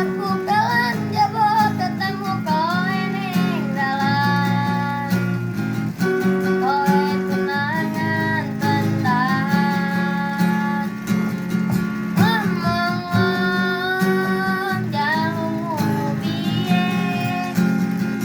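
A child singing a song in long, wavering held notes, accompanied by a strummed acoustic guitar.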